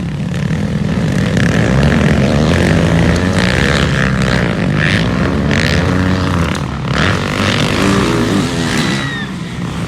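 Motocross bike engines revving hard on the track, pitch climbing and dropping with each throttle change as the bikes race past.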